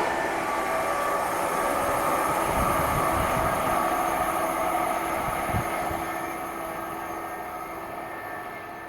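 A train running past at the station: a steady rumble with whining tones, fading away over the last few seconds as it moves off.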